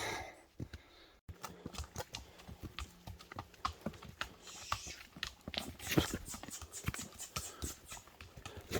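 A horse walking past, its hooves clopping in an irregular run of sharp knocks.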